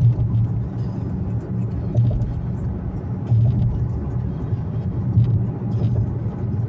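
Car driving: steady low engine and road noise with music playing along, its low end swelling every second or two.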